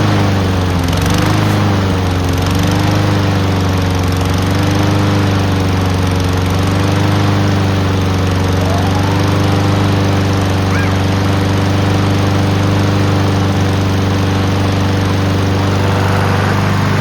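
Honda HRN216 lawn mower's four-stroke engine running after its carburetor jets were cleaned: the speed wavers for the first couple of seconds, then settles into a steady run.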